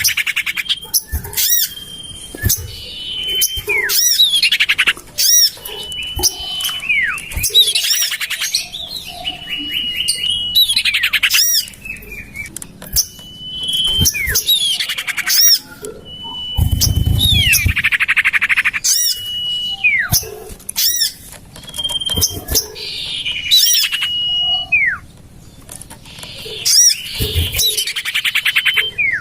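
Common iora (sirtu/cipoh) calls played as a bird lure: clear whistled notes held at one pitch and quick downward-slurred whistles, alternating every few seconds with bouts of fast, harsh chattering.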